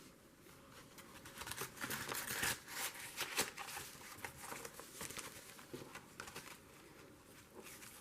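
Paper rustling and crinkling as a piece of watercolor paper is handled and tucked back into a journal. It is busiest about two to three and a half seconds in, then dies down to scattered light taps.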